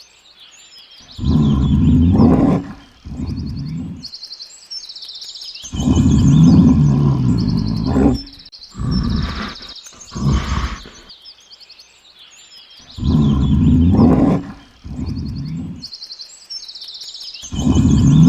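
A large animal roaring in repeated deep bursts, the same call coming back about every six seconds, with small birds chirping steadily behind it.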